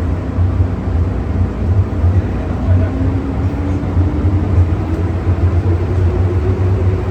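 MTR M-Train running with a steady low rumble while accelerating away from a station, its traction motor whine rising steadily in pitch.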